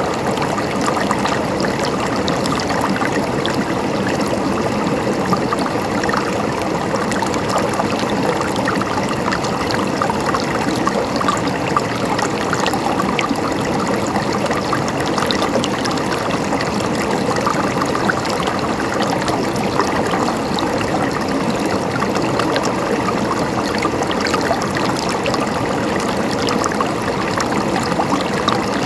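Flowing water gurgling and trickling steadily.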